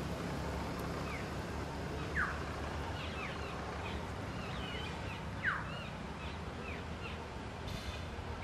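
A bird's short, falling whistle, repeated three times about three seconds apart, with other birds chirping more softly, over a steady low background noise.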